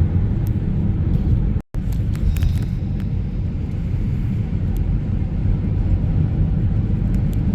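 Steady low rumble of a car driving, road and engine noise. It cuts out completely for a split second a little under two seconds in.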